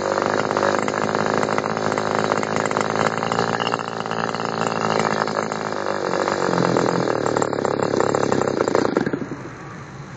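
ASP 25 ALL model-aircraft glow engine running at high speed with a 10x6 propeller on a test stand. Its note shifts about six seconds in, and it cuts out abruptly about nine seconds in.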